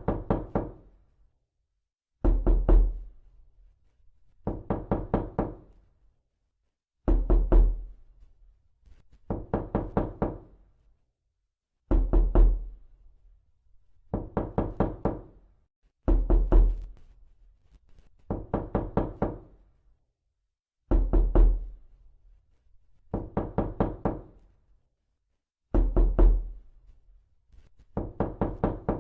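Knocking in quick bursts of several knocks each, repeating about every two and a half seconds, some bursts opening with a heavier, deeper knock.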